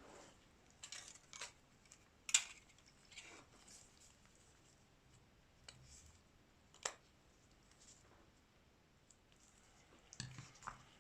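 Scattered small clicks and taps of phone parts and repair tools being handled, irregular and sparse, the sharpest a little over two seconds in and another near seven seconds.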